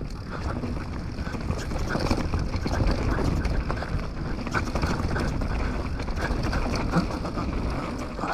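Canyon Torque mountain bike riding down a rough trail: a steady rumble of tyres over dirt and wind on the GoPro microphone, with scattered small clicks and rattles from the bike.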